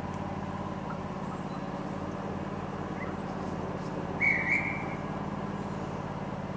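Steady low hum of a train standing at a station platform, with one short high whistle about four seconds in.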